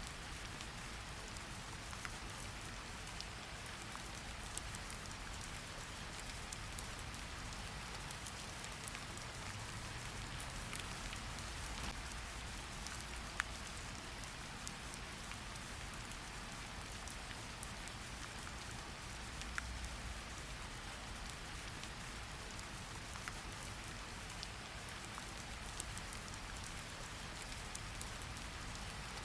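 Steady rain falling on a surface, an even hiss with scattered sharp drop ticks and a low rumble underneath.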